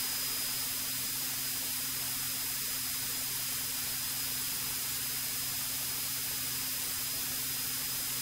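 Steady static hiss of a cockpit intercom audio feed, with a faint steady low hum underneath from the Cirrus SR-20's engine at takeoff power during the takeoff roll.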